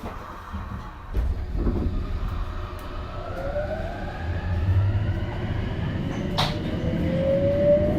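Tokyo Metro 02 series subway train pulling away and accelerating, its traction motors giving a whine that rises steadily in pitch over a growing rumble. A single sharp click is heard about six and a half seconds in.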